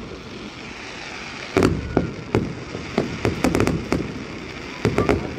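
Fireworks display: aerial shells bursting in an irregular run of sharp bangs, starting about a second and a half in, bunched together near the middle, with two more close together near the end.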